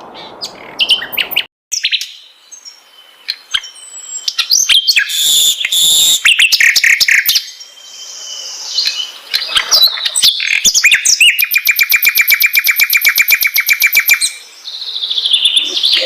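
Sikatan londo, a flycatcher, singing a varied song of sharp chirps and whistled notes. Midway through it gives a fast, even trill of about ten notes a second for about three seconds. A soft hiss in the first second and a half cuts off abruptly.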